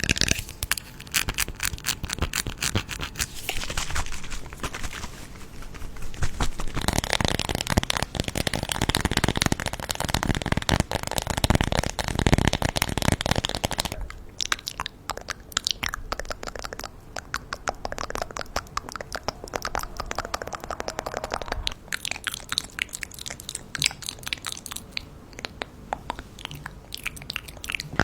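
Close-miked crunching and crackling of candy, a dense run of rapid small cracks all the way through, heavier around the middle.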